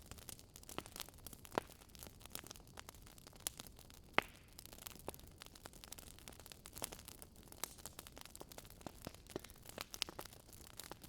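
Campfire of burning wood logs crackling: irregular sharp pops and snaps over a faint low hiss, with a louder pop about four seconds in.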